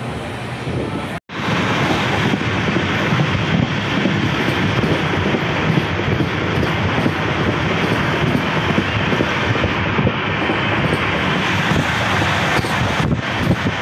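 Express passenger train coach running at speed, a steady rumble and rush of wheels on the rails heard from the coach's side. The sound drops out for an instant about a second in and comes back a little louder.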